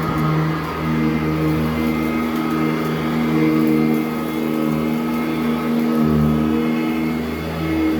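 Sanitaire SC899 commercial upright vacuum running over carpet, its motor giving a steady hum with a high whine, the loudness swelling and dipping as it is pushed back and forth.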